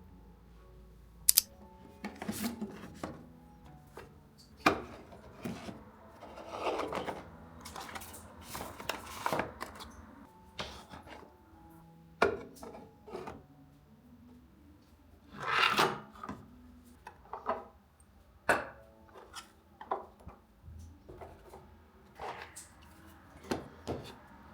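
Kitchen handling sounds: sharp knocks and clicks of things being set down or tapped, with stretches of rubbing or scraping. Soft background music plays underneath.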